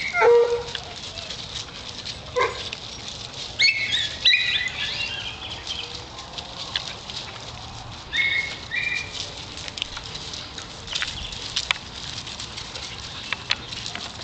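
Dogs milling around, with a short bark right at the start and about two and a half seconds in, and brief high calls around four seconds and again around eight seconds in, over light patter and scuffling.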